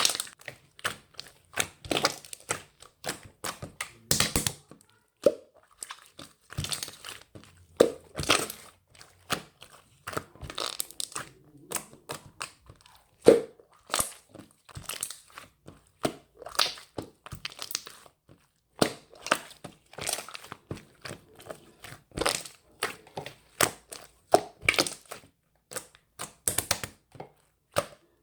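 Close, irregular crinkling, crackling and tearing handling noises, with many short sharp clicks and one louder crack about 13 seconds in.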